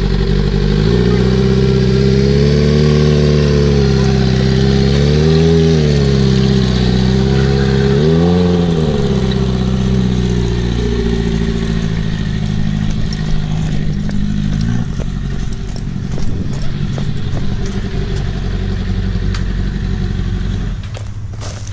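Motorcycle engine with a straight-piped exhaust running, revved up briefly twice. The engine note stops about two-thirds of the way through, leaving a low rumble and some clicks.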